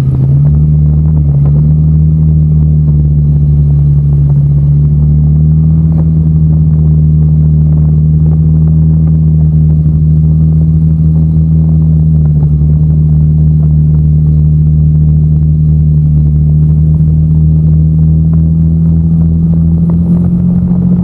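Vehicle engine running at a steady speed, a loud low hum whose pitch dips briefly near the start and rises slightly near the end.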